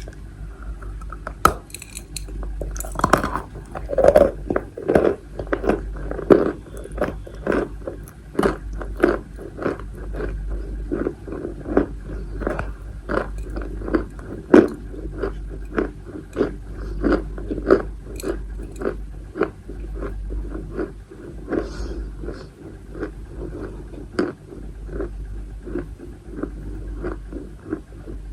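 Person chewing pieces of edible chalk close to the microphone, with sharp crunches about twice a second that keep up steadily.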